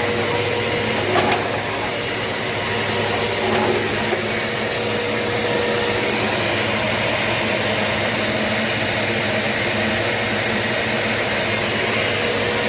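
Eureka PowerSpeed bagless upright vacuum cleaner running steadily, a steady rushing noise with a high motor whine. There are two light clicks, about a second in and about three and a half seconds in.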